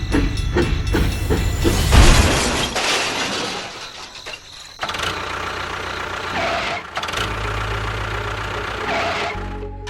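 An engine running with a fast knocking rhythm, with a loud noisy burst about two seconds in, then running on more steadily.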